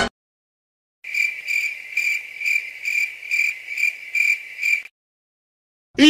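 Crickets chirping, the stock "crickets" sound effect used to mark an awkward silence: about nine evenly spaced high chirps, roughly two and a half a second, starting about a second in and stopping about a second before the end.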